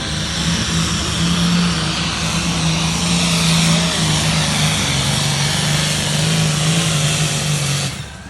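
A pulling vehicle's engine runs at full throttle with a loud, steady roar, its note dipping slightly about halfway through. It cuts off abruptly near the end.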